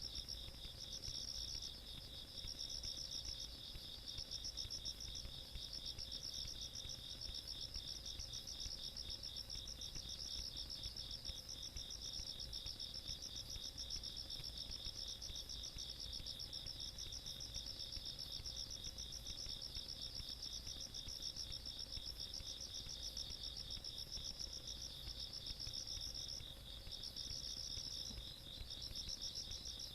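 Night chorus of singing insects. A higher-pitched insect pulses in phrases of about a second, over a second insect's steady, fast, lower trill.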